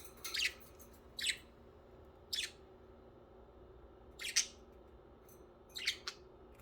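Pet budgerigar giving about six short, sharp, high-pitched chirps at irregular intervals, with two in quick succession near the end.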